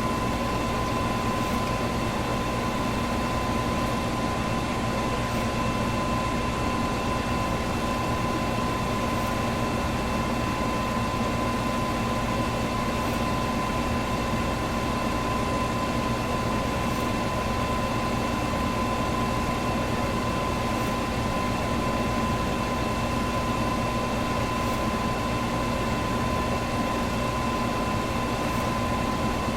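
Electric fan running steadily: an even rushing air noise with a constant motor hum and a thin steady whine in it.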